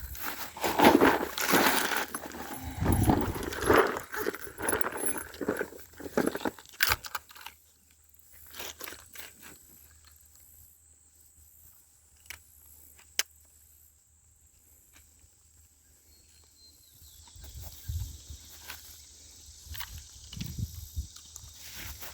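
Close, irregular rustling, crunching and clattering handling noises, loud for the first several seconds. Then it goes quiet, with a single sharp click about halfway through, and the rustling resumes near the end.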